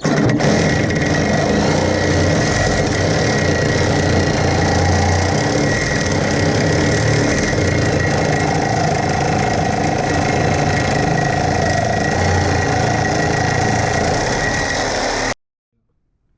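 Corded reciprocating saw (Sawzall) cutting through a welded-on steel battery box mount, running steadily under load with a high whine, then stopping abruptly near the end.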